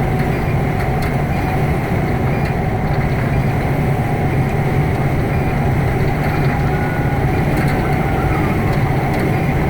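Fire engine's diesel engine running with a steady low drone, heard from inside the cab.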